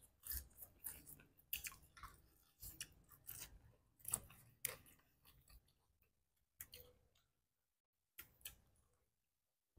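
People chewing and crunching boiled shrimp and corn on the cob, with many short sharp crunches over the first five seconds, then only a few with quiet stretches between them.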